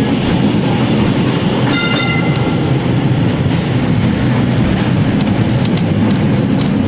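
Vintage Melbourne W2-class tram of Seattle's Waterfront Streetcar running along its rails, heard from aboard: a steady, loud low rumble. A brief high tone sounds about two seconds in.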